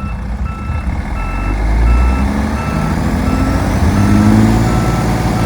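Plow truck's reversing alarm beeping steadily, about three beeps every two seconds, while its heavy engine revs up twice. The truck is stuck high-centred in snow and is not moving.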